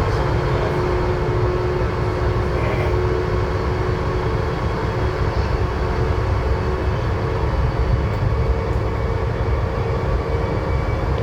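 Inside a VAL 208 automated metro car running between stations: a steady rumble of rubber tyres on the guideway with a steady whine from the traction motors. The car is running with a slight motor fault.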